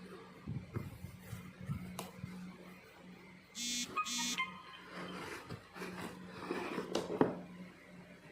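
Two short, high beeps about half a second apart, over a low steady hum and some light clicks and handling rustle.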